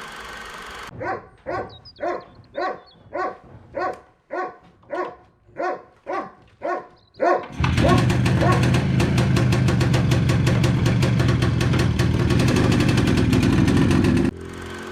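A dog barks about eleven times at an even pace. Then the IZH 56's 350cc two-stroke single-cylinder engine starts up about seven and a half seconds in and runs loud and steady with a fast, even firing beat. It cuts off suddenly near the end.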